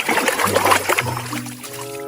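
Water splashing and trickling as a plastic toy animal is washed, over background music; the splashing fades out a little past halfway, leaving the music's held notes.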